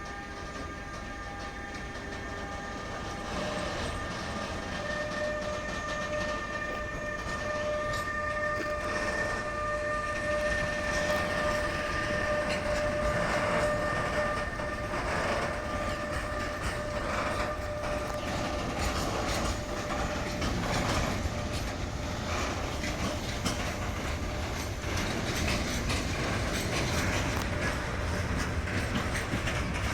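Freight train passing on the rails: a steady whine for the first part, then the wagons' wheels clattering over the rail joints, growing louder.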